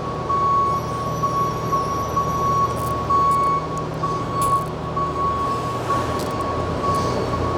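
Electronic warning beeper pulsing in a rapid, even beep at one pitch, like a vehicle's backup alarm, over a steady low machinery hum.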